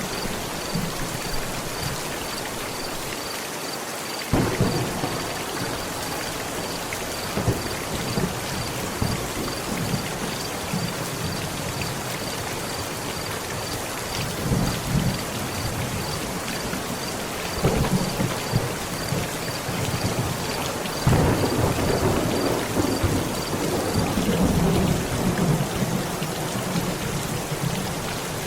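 Steady heavy rain drumming on a tent, with thunder: a sudden clap about four seconds in, another rumble a little past halfway, and a longer rolling rumble from about two-thirds of the way in.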